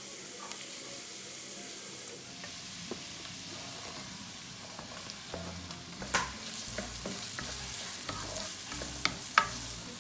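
Crushed ginger and garlic sizzling in hot oil in a wok, stirred with a wooden spatula. A little past halfway, chopped onions are tipped in, followed by sharp knocks and scraping of the spatula against the pan as they fry.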